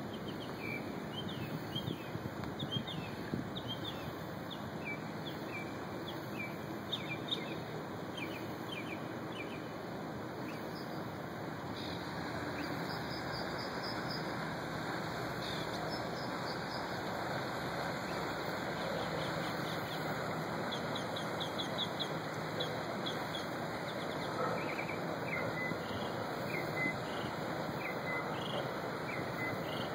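Small birds chirping in short, repeated calls over a steady outdoor background of wind and water noise, which grows a little louder about twelve seconds in.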